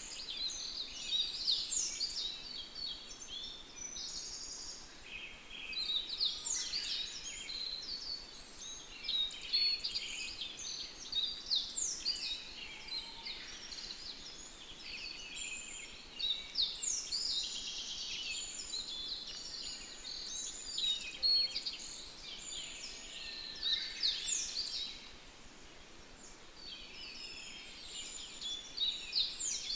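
Several songbirds chirping and singing together in a busy, overlapping chorus of quick high notes and trills, easing into a short lull near the end.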